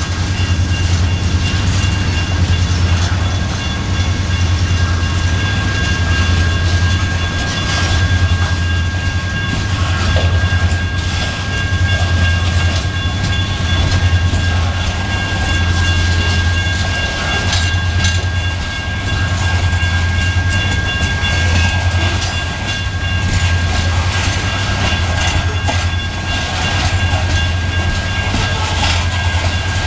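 Loaded coal hopper cars rolling past close by, a steady low rumble with wheels clacking over the rail joints.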